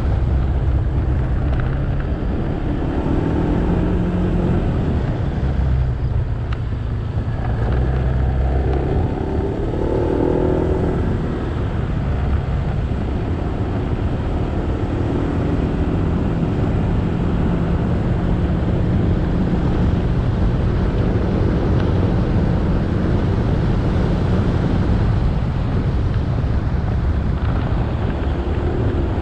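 Motorcycle engine running on the move, with wind and road noise. The engine note shifts a couple of times in the first dozen seconds, then holds steadier.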